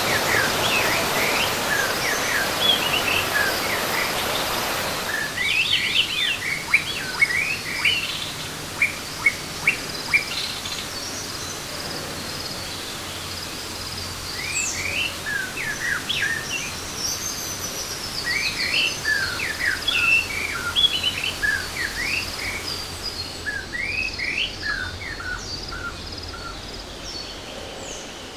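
Wild birds chirping in many short, quick calls, with a few higher thin whistles. They sit over a steady rushing hiss that drops off sharply about five seconds in.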